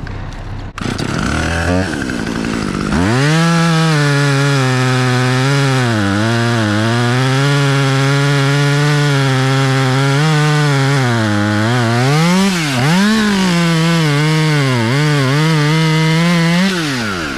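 Chainsaw cutting through white oak, its engine pitch dipping as it bogs in the cut and picking back up. It opens up about three seconds in and stops shortly before the end.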